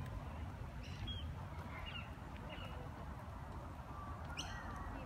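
Scattered bird calls: a few short chirps, then a louder call near the end, over a steady low rumble.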